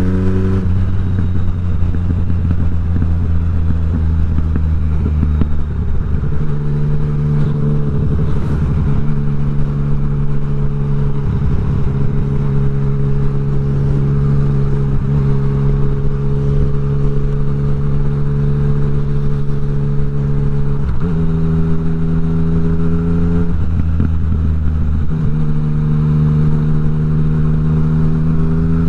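Yamaha MT-09's three-cylinder engine running under way at a steady pitch, with a few step changes in engine speed and a rising pitch near the end as it speeds up.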